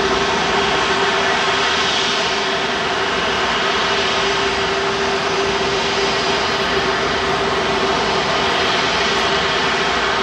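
Jet airliner's engines running close by: a loud, steady rush of noise with a steady tone held through it.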